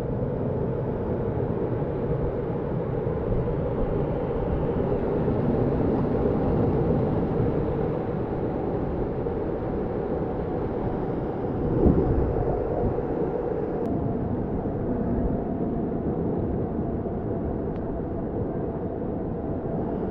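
Steady rush of a waterfall and creek water, with one brief louder bump about twelve seconds in.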